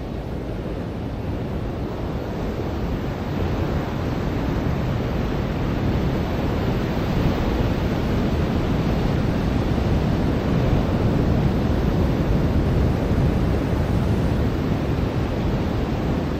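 Ocean surf washing onto a beach, a dense rushing swell that grows louder over the first few seconds and then holds steady.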